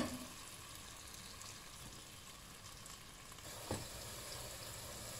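Chopped pumpkin and onion sautéing in a pot, a faint steady sizzle, with a wooden spoon knocking against the pot at the start and once more about two-thirds of the way in.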